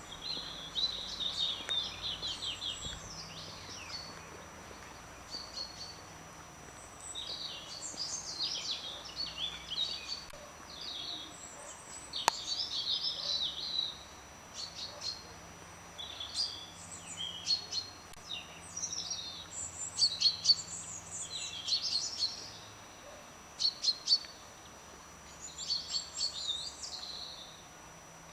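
Small songbirds chirping and singing in quick, busy phrases of short high notes, with brief pauses between bursts. A single sharp click sounds about twelve seconds in.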